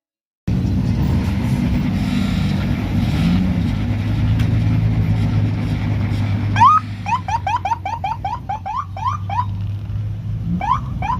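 Car engine running with a steady low rumble. Just past halfway, rapid short rising chirps start, about four a second, then stop, and a couple more come near the end.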